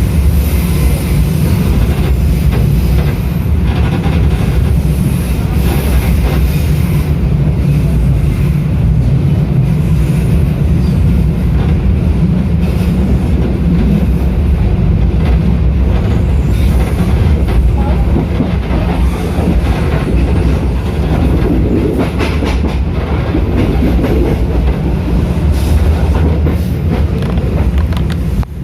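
Passenger train running at speed, heard from aboard: a loud, steady low rumble of wheels on rail with occasional clicks from the track.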